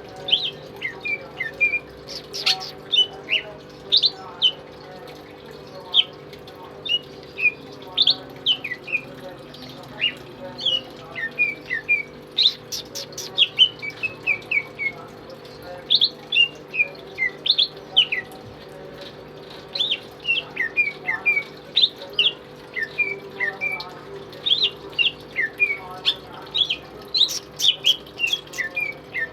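Pet green leafbird (cucak ijo) singing in full voice: a long, busy run of short, sharp whistled notes, many sliding downward, with only brief pauses between phrases.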